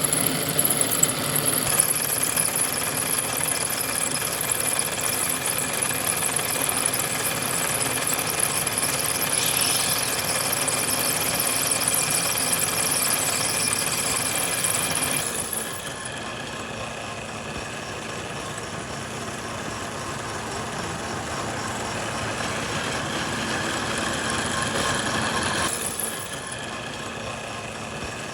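Steady machinery running with a constant mechanical hum and hiss. The sound drops abruptly in level and character about 15 seconds in and again about 26 seconds in.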